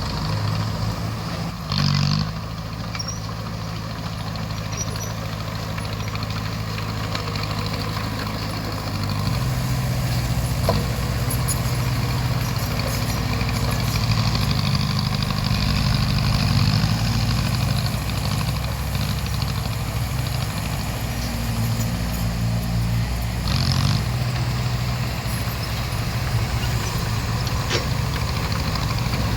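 Diesel engine of a crawler bulldozer running steadily, getting louder about a third of the way through as it works, with two short louder bursts of noise.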